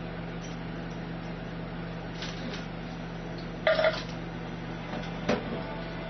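Steady low hum of a running kitchen appliance, with a short clatter a little past halfway and a single knock about a second later.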